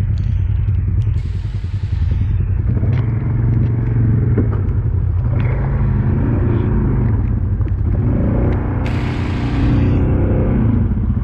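Polaris ATV engine running under load, its note rising as the throttle opens about three seconds in and again near the end. Two bursts of hiss come on top, about a second in and around nine seconds in.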